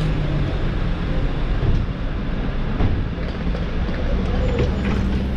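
Steady low rumble and hum of a moving vehicle, heard from inside.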